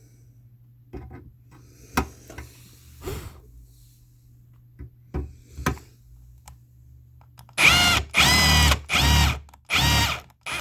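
Cordless drill drilling out the rivets that hold a metal mounting bracket on an air conditioner, run in four short trigger bursts near the end. A few light knocks and clicks come before it.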